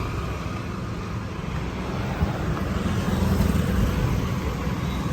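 Road traffic: a steady low rumble of passing cars and motorbikes.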